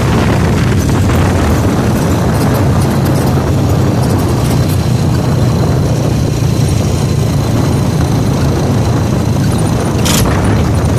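Motorcycle riding along a road: a steady low rumble of engine and road noise, with a brief hiss about ten seconds in.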